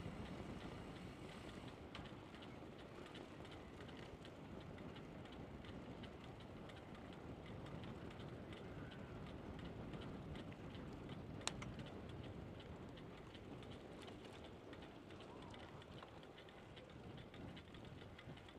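Bicycle freewheel hub ticking steadily as the bike coasts, over a faint low rumble of the ride. One sharp click about eleven seconds in.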